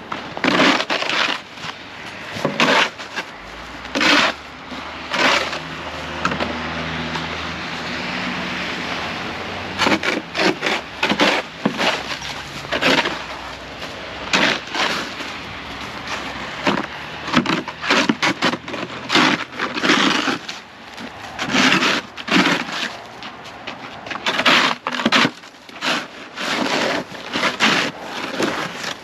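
Shovel blade chopping and scraping at a sheet of ice on pavement: repeated sharp strikes with cracking and scraping, roughly one or two a second. A low engine hum runs underneath from a few seconds in until about a third of the way through.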